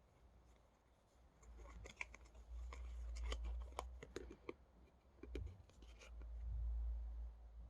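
Hands handling photo-card packaging: a run of small sharp clicks and ticks, with low handling bumps.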